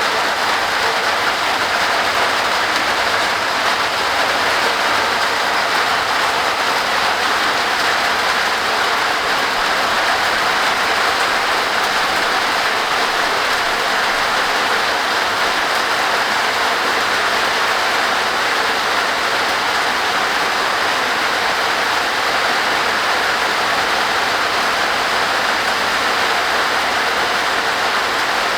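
Heavy rain falling on a tin roof: a loud, steady hiss that holds even throughout.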